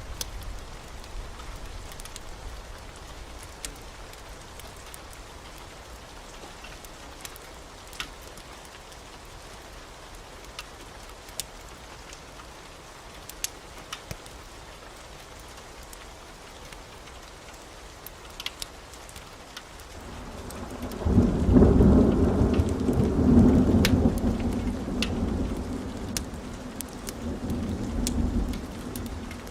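Steady rain with scattered sharp pops, then about twenty seconds in a roll of thunder rumbles up, loudest for a few seconds, and dies away near the end.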